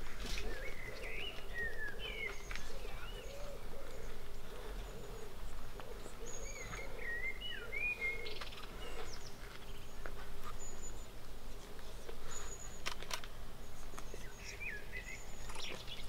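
Birds singing in short, wavering whistled phrases that come in several bursts, with a lower wavering sound underneath for about the first half and a few sharp clicks in the second half.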